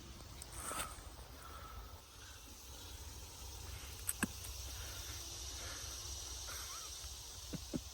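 Faint outdoor ambience: a low rumble with a steady, insect-like high hiss, and a few light clicks about four seconds in and again near the end.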